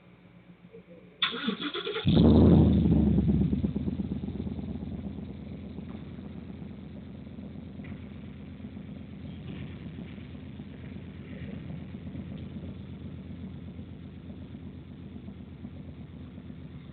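A vehicle engine cranked by its starter for about a second, catching about two seconds in and then settling into a steady idle.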